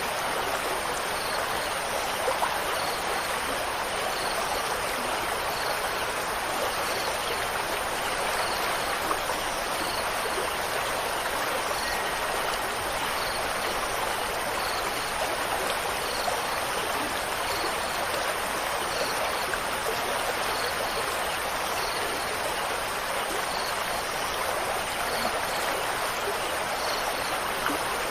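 Steady rushing of running water, with faint high chirps repeating about once a second like a cricket.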